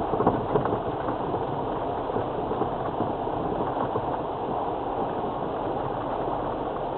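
In-cabin drive noise of a 2002 Land Rover Freelander TD4, its four-cylinder turbo-diesel engine running steadily at low speed along with tyre and body noise, and a few knocks about half a second in.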